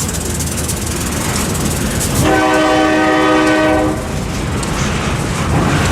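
Oncoming Norfolk Southern freight train's diesel locomotives rumbling and growing louder. One long blast of the locomotive's air horn, a chord of several tones, sounds about two seconds in.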